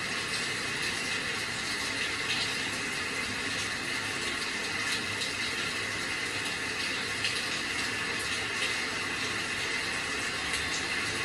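Steady rain falling: an even hiss with occasional faint ticks of individual drops.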